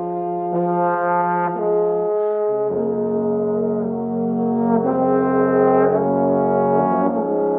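Trombones playing slow music in harmony, holding sustained chords; about a third of the way in the chord changes and a deep bass note enters, and it changes again near the end.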